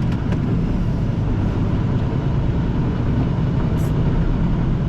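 Steady low rumble of a semi-truck's diesel engine and road noise heard from inside the cab while driving.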